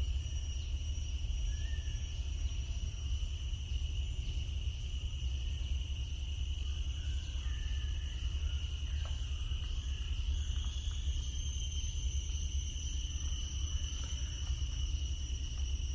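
Nature ambience: a steady high insect drone holding several pitches, over a constant low rumble, with a few faint short chirps scattered through.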